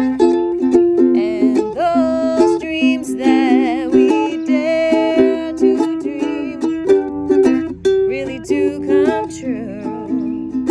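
Music: a strummed ukulele with a wordless sung melody over it, held notes wavering with vibrato.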